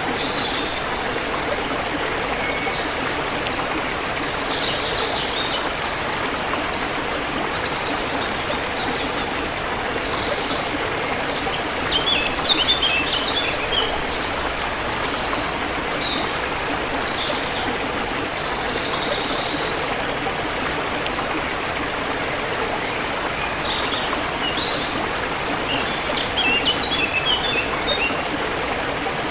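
Forest river water flowing steadily, with small birds chirping on and off above it; flurries of quick chirps come about midway and again near the end.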